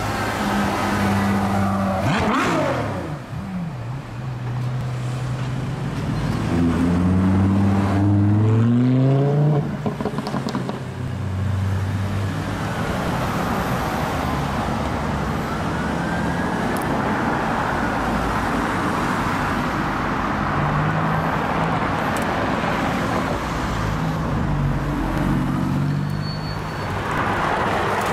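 Cars driving past on a street, with one car's engine accelerating, its note rising in pitch, between about six and ten seconds in; steady traffic noise throughout.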